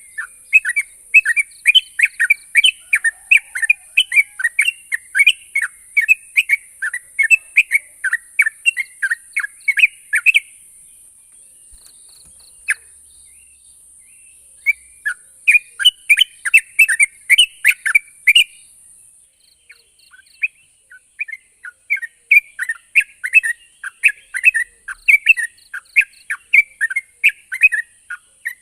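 Yellow-vented bulbul (trucuk) singing: fast, bubbly runs of chirping notes, about three or four a second. The song breaks off twice for a few seconds before starting again. A steady high hiss lies behind the first two-thirds.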